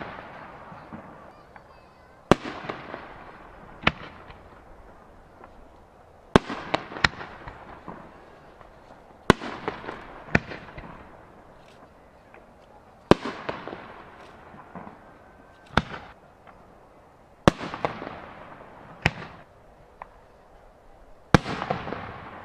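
Aerial firework shells bursting one after another: about a dozen sharp bangs a few seconds apart, some in quick pairs, each trailing off in a fading echo.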